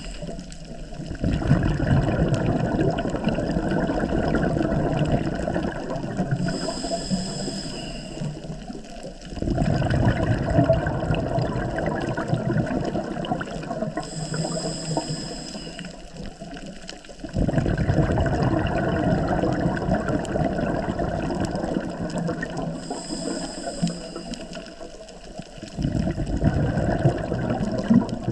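A scuba diver breathing through a regulator underwater: four long rushes of exhaled bubbles, about eight seconds apart, with a quieter, higher hiss of the regulator on each inhale between them.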